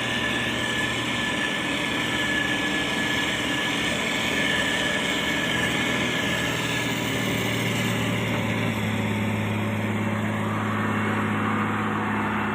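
Motor grader's diesel engine running steadily, its note changing slightly about eight seconds in.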